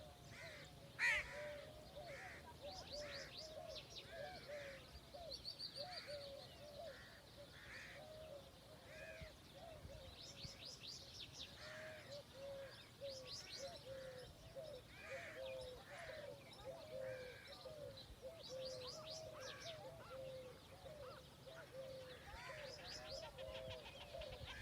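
Several wild birds calling at once in the open: short low calls repeat steadily, with other repeated calls above them and bursts of rapid high-pitched trills. There is one sharp click about a second in.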